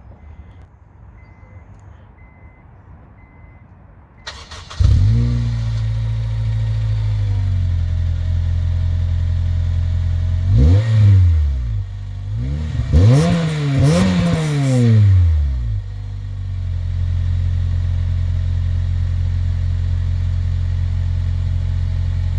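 Honda Civic Type R EP3's four-cylinder K20 engine, fitted with an HSK aftermarket exhaust, starting up about four seconds in and settling to a steady idle. It is then revved once, and again several times in quick succession, before dropping back to idle.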